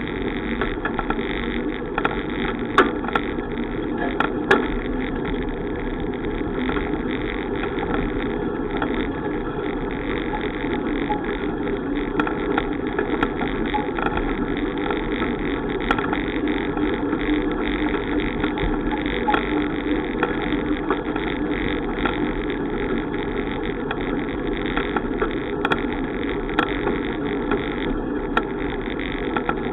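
Steady wind and rolling noise of a bicycle ride, with scattered sharp clicks and knocks.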